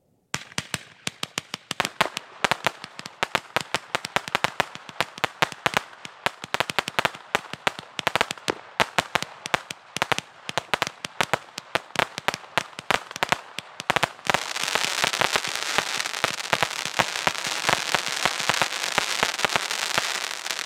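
Weco Rebel 81-shot firework battery firing: a rapid string of sharp bangs and pops, several a second, begins a moment in. About fourteen seconds in it turns into a louder, dense crackling hiss.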